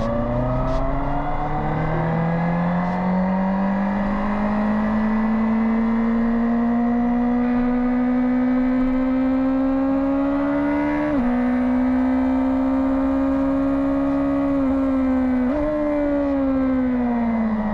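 Two-seater racing motorcycle's engine pulling hard at speed, its note climbing steadily for about ten seconds. There is a quick gear change about eleven seconds in, another dip and jump in pitch around fifteen seconds, and the note falls away near the end as the bike slows.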